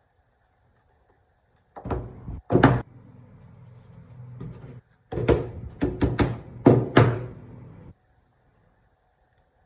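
A series of sharp knocks and clatter, as of hard parts being handled or struck: two hits, a short steady noise, then a quick run of five or six more.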